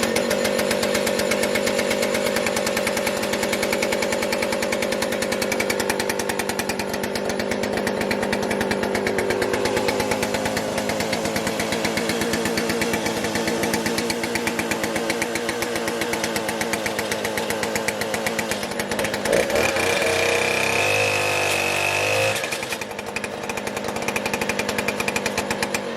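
Knockoff Stihl two-stroke chainsaw running steadily at high revs in a chainsaw mill. About twenty seconds in, the engine note wavers and a thin high whine joins it for a couple of seconds, then the steady note returns.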